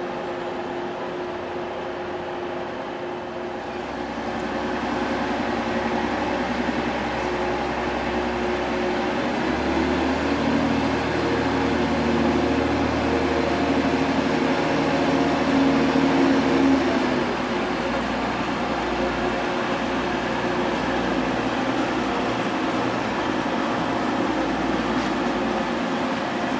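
Diesel multiple unit's engines running at the platform, a steady hum that grows louder about four seconds in, is loudest for several seconds in the middle, then eases back to a steady level.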